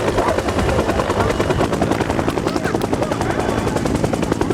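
Helicopter flying, its rotor blades beating in a fast, steady chop.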